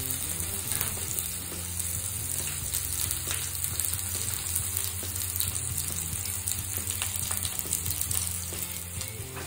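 Chopped onions frying in mustard oil in a steel pan: a steady sizzle with an occasional faint pop.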